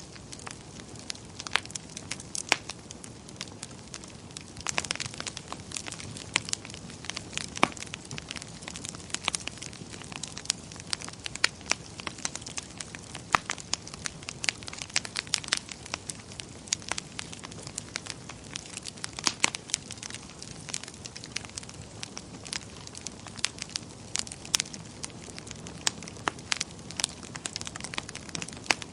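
Wood fire in a fireplace crackling: a steady low hiss with irregular sharp pops and snaps, several a second.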